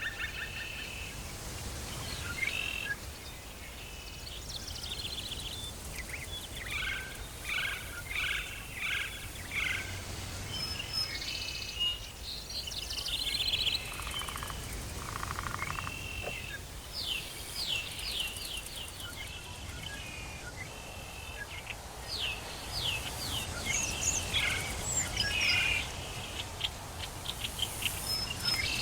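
Tropical forest ambience with several birds calling: bursts of repeated chirps and short whistled notes come and go throughout, over a steady low background rumble.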